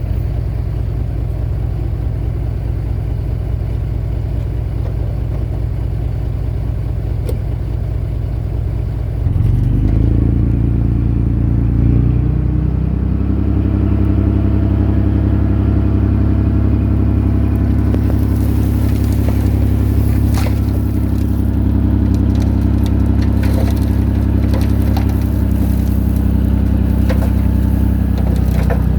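Diesel engine of a Komatsu D21A bulldozer running steadily, then revving up about nine seconds in and holding a higher, louder note under load. In the second half, scraping, crunching and scattered clanks come in, as of the blade and tracks working soil.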